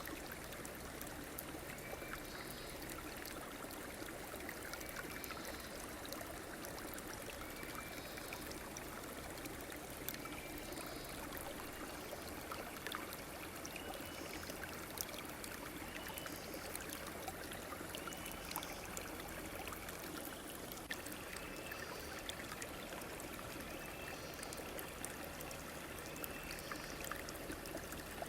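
River or stream water flowing and trickling steadily, with many small splashing ticks. A short high chirp repeats every two seconds or so over it.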